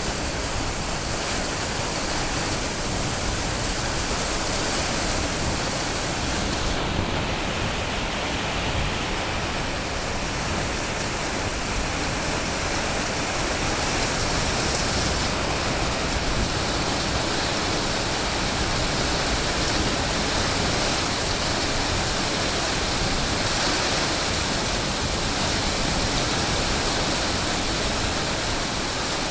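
Heavy rain falling, a steady even hiss with no thunderclaps.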